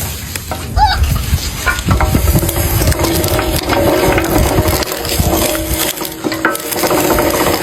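A juicing machine crushing produce, with irregular cracking and splintering over a faint steady machine tone.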